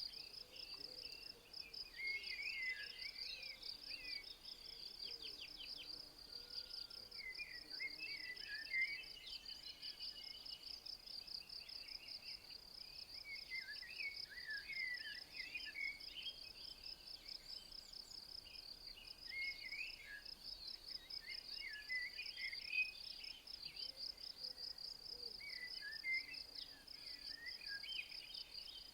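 A cricket-like insect trilling steadily, a high, rapid, even pulse that never stops. Over it a bird sings short chirping phrases every few seconds.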